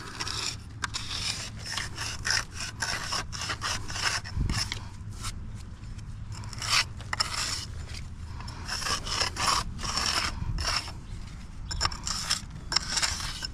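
Mason's steel jointer scraping along fresh mortar joints between bricks in a quick run of rubbing strokes. The tooling compresses the mortar as it sets and seals it to the top and bottom of the bricks.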